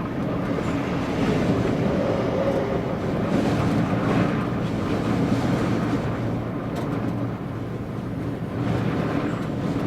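A vehicle driving in strong, gusting wind: steady road and engine noise with wind buffeting that swells and eases.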